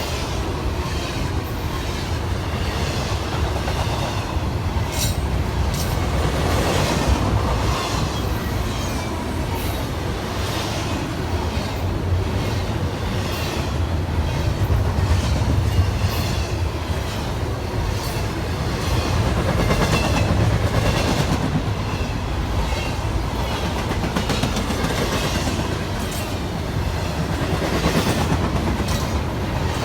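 Freight train cars rolling past, a steady rumble with wheels clicking repeatedly over the rail joints.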